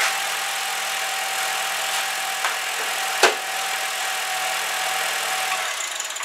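2007 Honda Fit's four-cylinder engine idling steadily under the open hood, with a steady high tone in the hum. A single sharp click about three seconds in; the running sound stops near the end.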